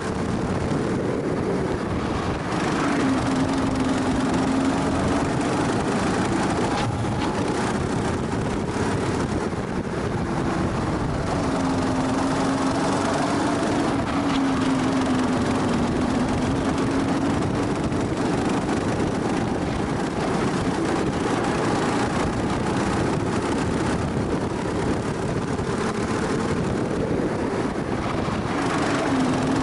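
Kart engine at full running on a track, heard onboard: its pitch rises and falls again and again as the kart accelerates and slows through the corners, over a constant rush of noise.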